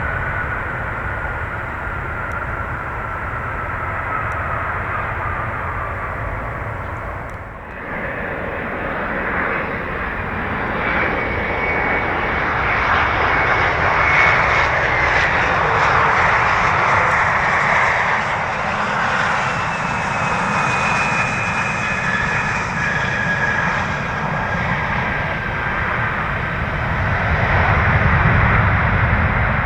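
Jet airliners landing: a Boeing 767's engines run with a slowly falling whine, then a sudden cut about 7.5 seconds in to a Bombardier CRJ-700 regional jet whose engines swell louder with whining tones as it comes in and lands.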